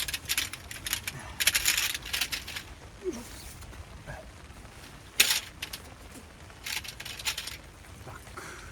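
Intermittent rustling and sharp clinks of wet camping gear being handled and packed during a tent teardown, in irregular bursts with a sharp knock about five seconds in.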